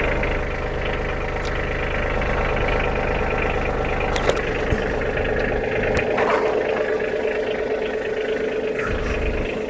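Engine running steadily at an even speed, with a low rumble that fades about six seconds in and a few light clicks.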